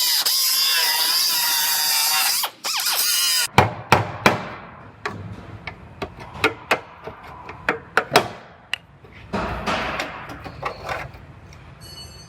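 A high-pitched power tool whining steadily while cutting, then, after an abrupt break about three seconds in, a string of sharp, irregular taps and knocks.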